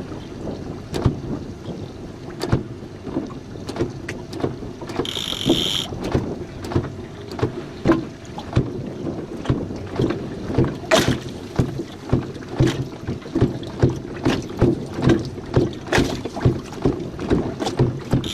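Water slapping against the hull of a small jon boat: a run of sharp knocks over a steady wash, coming more regularly, about two a second, in the second half. A short high-pitched tone sounds briefly about five seconds in.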